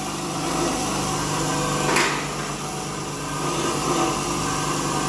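A file scraping across the edges of new brake pads in a couple of strokes, about two seconds in and again near four seconds; the edges are chamfered so the pads will not squeal. A steady machine hum runs underneath.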